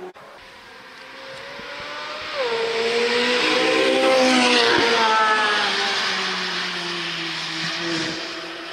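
2023 Corvette C8 Z06's flat-plane-crank V8 accelerating past, with a quick drop in pitch about two and a half seconds in. It grows loudest about four seconds in, then falls in pitch and level as it drives away.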